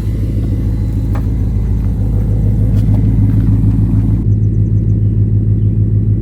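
2024 Mustang GT's 5.0 V8 idling through a muffler-delete exhaust: a steady, deep rumble.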